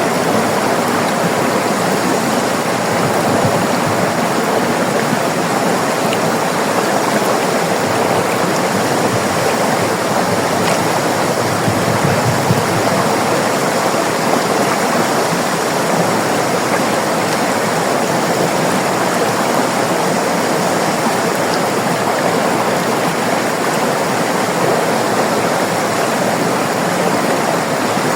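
River water flowing and rushing over rocks, a steady, even rush of water.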